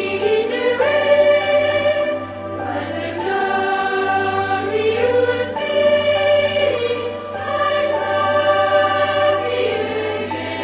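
Boys' choir singing long held notes that slide from one pitch to the next.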